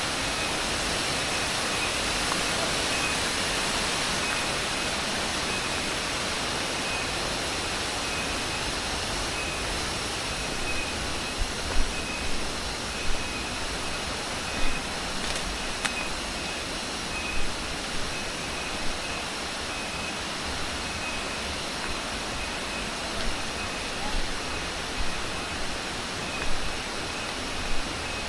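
Steady rush of falling water from a waterfall, with a thin, high, evenly pulsing insect call running through it. From about a third of the way in, a series of short, irregular thumps stand out above the water.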